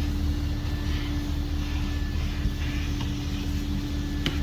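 Vacuum cleaner running steadily with a constant hum, pulling dog hair out of a car's carpet. A short click near the end.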